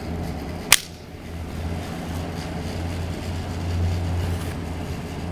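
A steady low mechanical hum, like a small electric motor or mains-powered film equipment running, with one sharp click about a second in.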